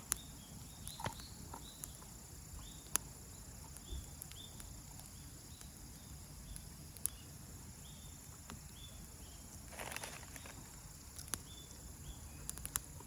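Wood campfire crackling, with a few sharp pops scattered through, over a steady background of insects chirping in short repeated notes.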